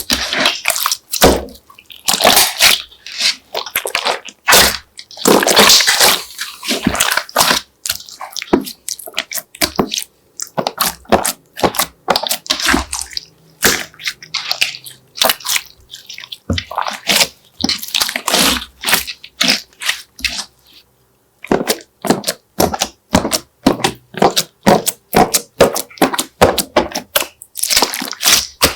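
Slime being squished, stretched and folded by hand: dense wet crackles, pops and squelches coming irregularly, with a short pause a little before the end.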